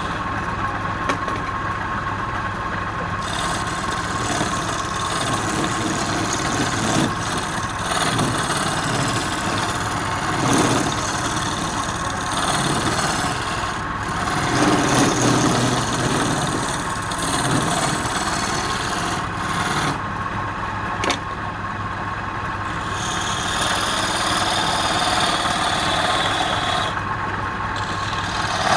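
Wood lathe motor running steadily while a tool scrapes and cuts the spinning wood, the cutting noise swelling and easing as the tool is pressed in and lifted off.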